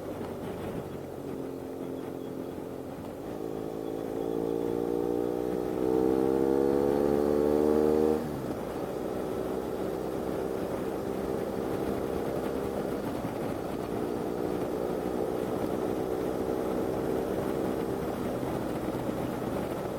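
Motorcycle engine accelerating: its pitch climbs for about five seconds and gets louder, then drops suddenly about eight seconds in, and the engine runs on at a steady pitch.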